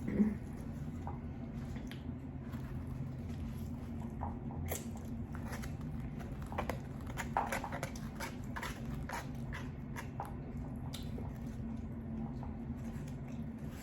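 Close-miked chewing and mouth smacks of someone eating lo mein, with irregular short wet clicks that come thickest in the middle. A steady low hum runs underneath.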